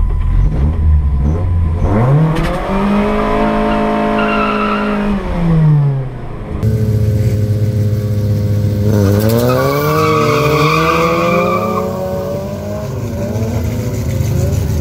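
Race car engines at a drag strip. One engine revs up, holds high and drops back. Then another engine note climbs steadily as a car accelerates away hard.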